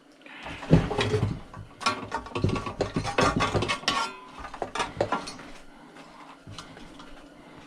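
Metal parts of a chop saw clanking and clicking as it is handled and worked apart, a busy run of knocks that thins to a few light ticks after about five seconds.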